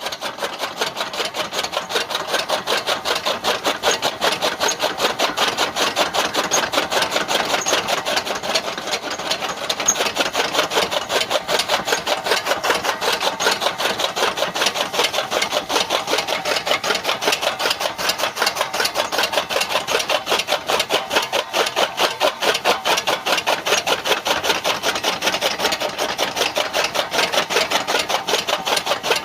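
Rapid, even rasping strokes, several a second, going on steadily.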